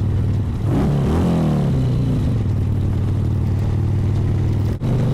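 Harley-Davidson Sportster 1200's air-cooled V-twin engine running steadily while riding, with a brief sweep in pitch about a second in and a short dropout in the audio near the end.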